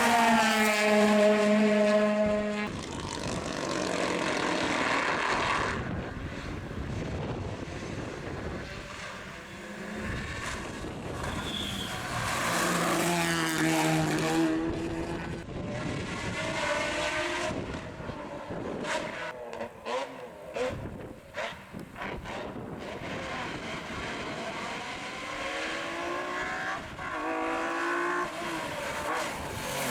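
Rally car engines revving hard and changing gear as cars go by on a special stage, the pitch climbing and dropping with each pass. The loudest pass comes right at the start and cuts off sharply after about two and a half seconds.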